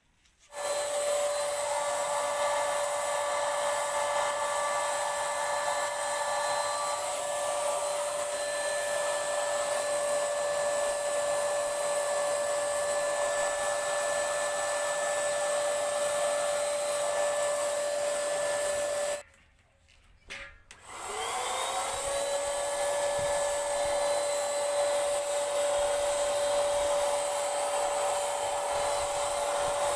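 Paint Zoom handheld electric spray gun's motor running with a steady whine. It stops for about two seconds past the middle, then starts again, its pitch rising as it spins back up.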